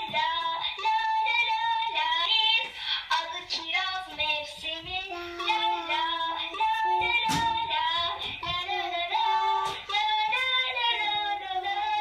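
A child singing a melody in a high voice, holding notes and stepping from one to the next without a break.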